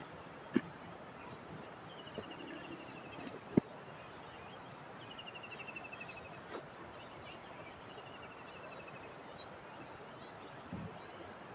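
A bird's rapid trill, falling slightly in pitch, sung three times about three seconds apart over a steady rural background. Two sharp knocks cut in, the louder one about three and a half seconds in.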